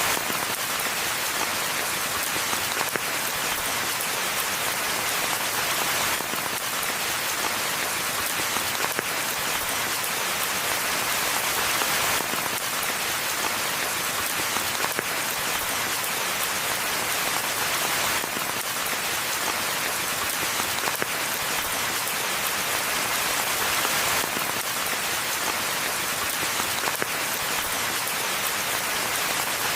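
Steady rain falling in a forest: an even hiss of many fine drops with no gaps. The texture repeats about every six seconds.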